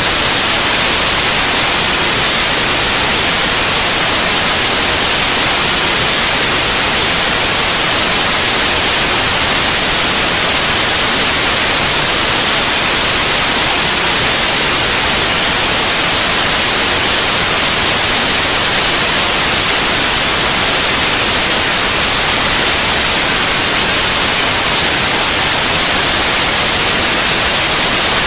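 Steady white noise: a loud, bright, even hiss that does not change, of the kind played as a sleep aid for babies.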